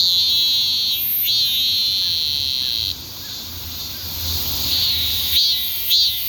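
Cicadas singing. A high buzzing call pulses about twice a second, stretches into a long unbroken buzz for the first few seconds, eases off about three seconds in, and takes up its pulsing rhythm again near the end.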